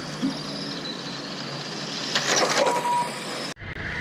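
Radio-controlled race cars running on the track, a steady noisy whir with short high whines from the motors. The sound cuts off abruptly near the end.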